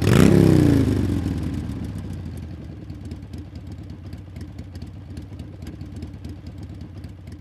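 Motorcycle engine revved, its pitch falling quickly over about a second as the revs drop, then settling into a steady idle with a light ticking clatter.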